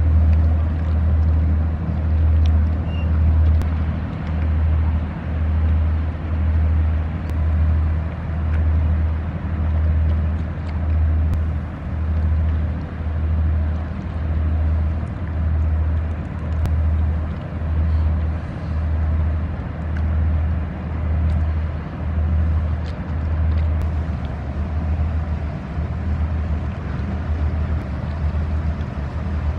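Inland cargo ship's diesel engine running with a deep, steady hum that pulses about once a second, the pulsing weakening near the end.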